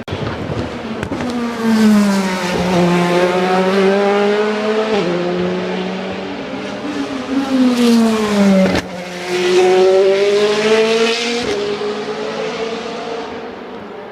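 Race cars at full throttle passing by one after another. The engine note drops in pitch as each car goes past, with sudden steps in pitch as they shift up a gear, and it fades away near the end.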